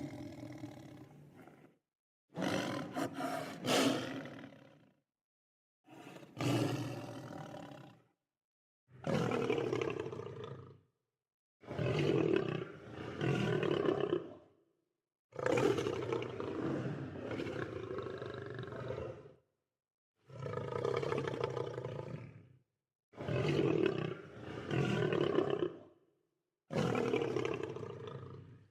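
Lion roaring and growling in a string of about nine separate calls, each two to four seconds long. Dead silence falls between each call, as in an edited compilation.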